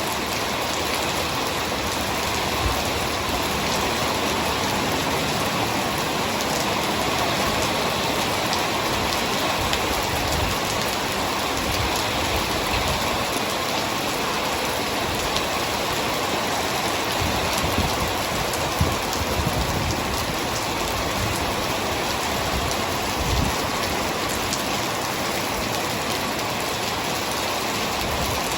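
Heavy rain falling steadily and pattering on surfaces, with many individual drops ticking and a few dull low thumps scattered through.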